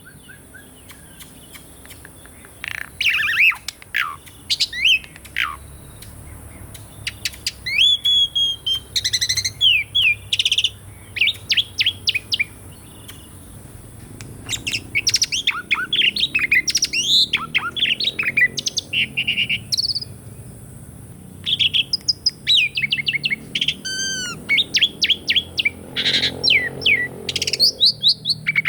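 Asian pied starling (jalak suren) singing: bursts of quick, sweeping whistles and chattering notes broken by short pauses.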